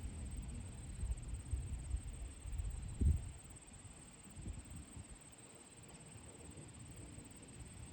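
Gusts of wind buffeting the microphone as a low, uneven rumble, with the strongest gust about three seconds in before it eases off. A faint steady high-pitched buzz runs underneath.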